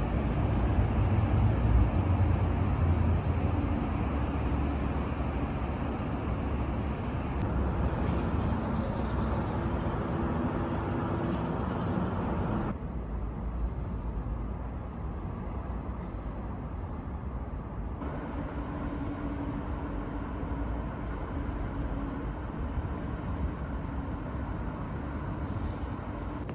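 Steady running rumble of a moving vehicle, with a faint hum of steady tones over it. The sound changes abruptly three times, as between separate recordings.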